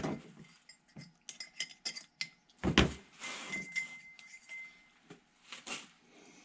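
Light metallic clinks and taps of engine parts being handled, with one louder knock about three seconds in.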